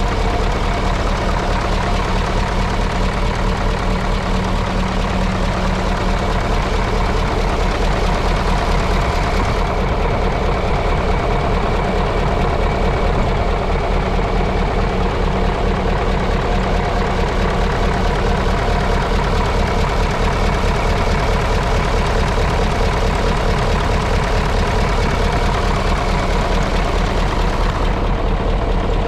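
Mitsubishi Fuso D8AY diesel V8 in a Hyundai Aero Queen High Decker coach, idling steadily while warming up from a cold start, with no revving.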